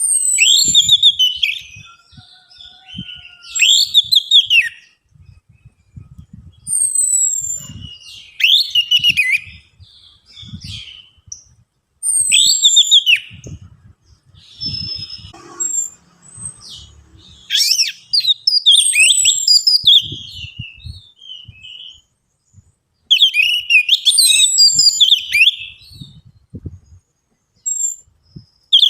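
Orange-headed thrush (anis merah) singing. It gives loud, rapid phrases of high whistled and gliding notes, each a second or two long, with short pauses between them. Faint low knocks are heard underneath.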